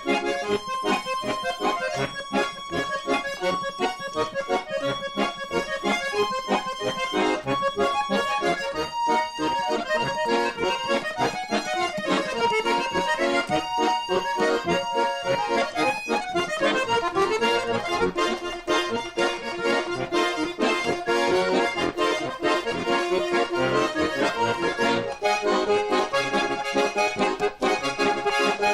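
Garmon, the Russian button accordion, playing a folk tune: chords under a melody, continuously throughout.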